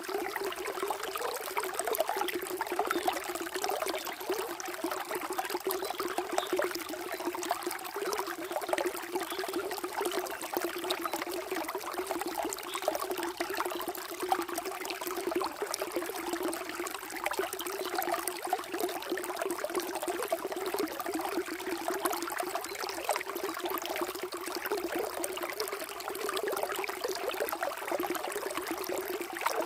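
Water flowing steadily in a small stream, a continuous trickling and splashing.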